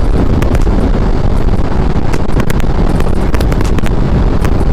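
Wind buffeting the microphone of a moving motorcycle, over steady engine and road noise, with scattered sharp ticks.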